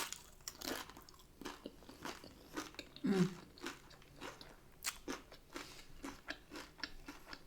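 A person chewing crunchy food close to the microphone: a run of short, irregular crunches and mouth sounds, about two a second, from a hard-shell taco meal.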